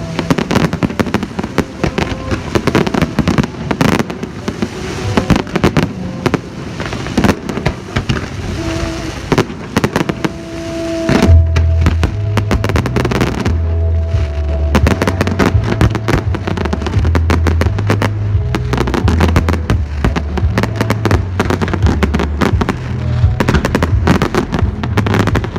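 Fireworks going off in a rapid stream of bangs and crackles. About eleven seconds in, heavy bass from the show's music joins them.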